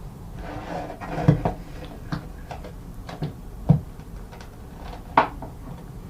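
Scattered knocks and clicks of hands and hardware working inside a small sink cabinet while a faucet's mounting fastener is snugged up, with three louder knocks among lighter taps.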